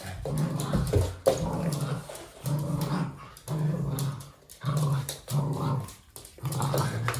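Toy poodle play-growling in a string of short growls, roughly one a second, with small knocks and scuffles of play between them.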